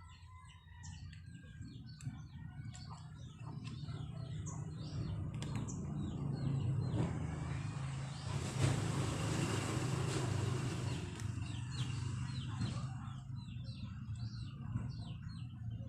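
Small birds chirping in many quick, short calls over a steady low hum. A louder rushing noise builds up in the middle and fades away again.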